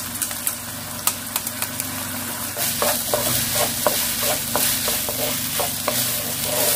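Soaked glutinous rice and abalone pieces frying in sesame oil in a nonstick pan, sizzling, with a few ticks at first as the rice drops in. About two and a half seconds in, a wooden spatula starts stirring and scraping in quick repeated strokes, and the sizzle grows louder.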